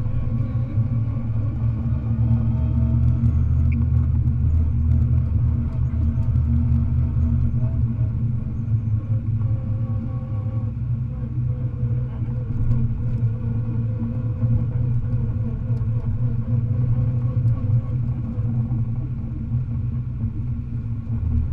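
Rally car's engine heard from inside the cabin, running steadily with no sharp revving.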